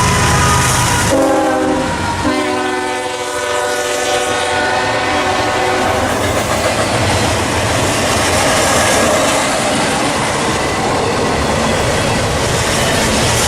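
Diesel locomotive passing close by, its engine rumbling and then its multi-note air horn sounding for about five seconds, the chord dropping in pitch as it goes by. This is followed by the steady rolling clatter of rail cars passing.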